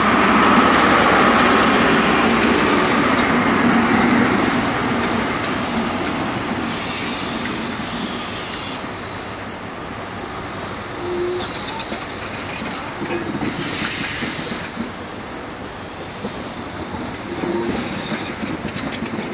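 Train noise at a station platform: a Class 43 HST power car's diesel engine running close by, loudest at the start and fading. A passenger train moves along the next platform, with two short air hisses about seven and fourteen seconds in.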